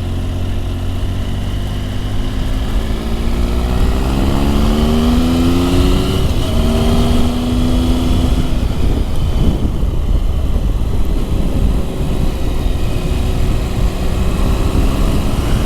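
Motorcycle engine under way with a heavy rumble of wind noise; the engine note climbs a few seconds in, holds steady, then sinks back under the wind.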